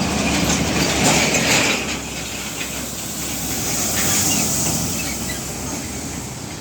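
Heavy trucks passing on the road: engine and tyre noise that swells over the first couple of seconds and again around four seconds in, with a hiss in the upper range.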